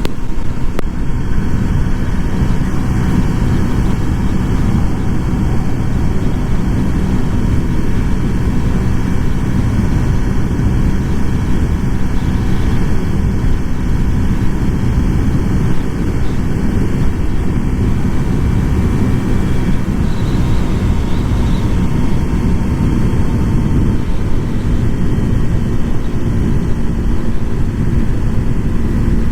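Honda Super Cub 125's small single-cylinder four-stroke engine running at a steady cruise while the bike is ridden, under a heavy low rumble of wind and road noise.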